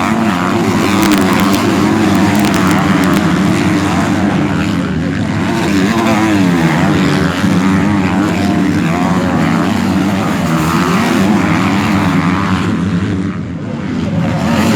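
Several MX2 motocross bikes racing, their engines revving up and down through the gears as they ride the track; the revs rise and fall in overlapping waves, briefly easing about 13 seconds in.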